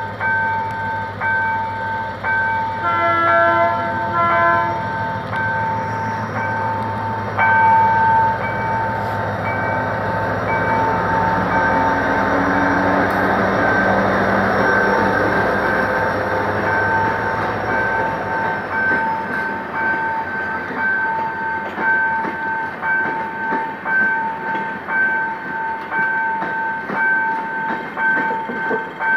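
Level-crossing warning bell pulsing steadily throughout. About three seconds in comes a short toot of the GM GT22CW diesel locomotive's horn, the crew's greeting. The locomotive's engine then grows loud as it passes close by, pulling away, and the passenger coaches follow, rolling and clattering over the rails.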